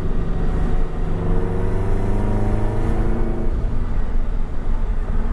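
Subaru FA20 flat-four boxer engine with a modified exhaust accelerating, its note rising steadily for about three seconds before the rise fades into a steady low rumble.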